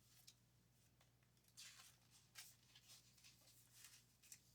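Near silence: room tone with a low hum and a few faint, short paper rustles from a picture book's pages being handled.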